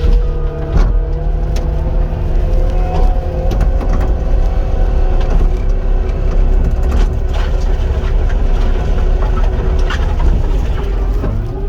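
Caterpillar 259 compact track loader's diesel engine running steadily under working load, with a steady high whine that dips and climbs back near the end. A few short knocks and clanks sound over it.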